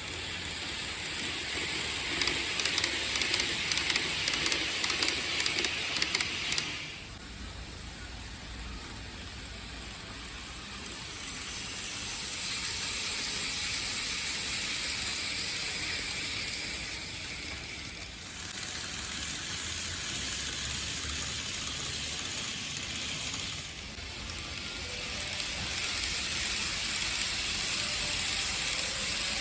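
TOMIX N-gauge model train running on its track: a steady hissing whir from the wheels and motor, with a run of quick clicks in the first several seconds, then rising and falling in level as it moves.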